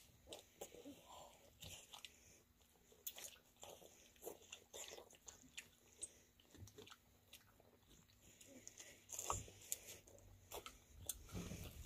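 Faint mouth sounds of rambutans being eaten: soft bites into the fruit and chewing, with small irregular clicks and smacks.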